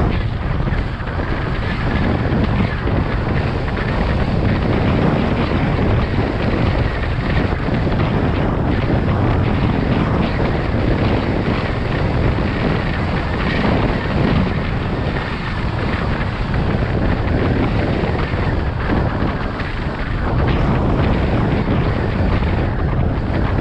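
Wind buffeting the microphone of a moving motorcycle, a steady loud rush with a heavy low rumble of wind and road noise.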